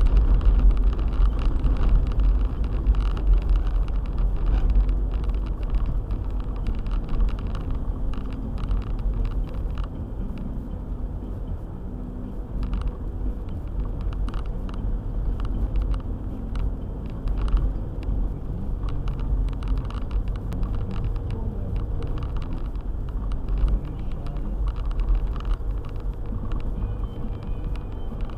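Four-wheel-drive car driving on a snowy road: a steady low rumble of engine and tyres, with many small irregular knocks and clicks over it.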